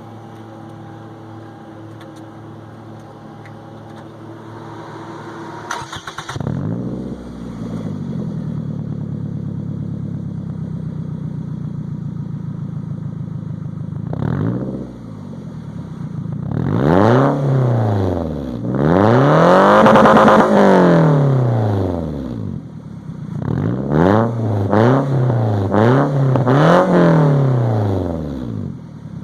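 2002 Toyota Camry LE's engine through a straight-piped exhaust with a 4-inch can tip: it starts up about six seconds in, idles, then is revved several times, with one long rev in the middle and a run of quick blips near the end.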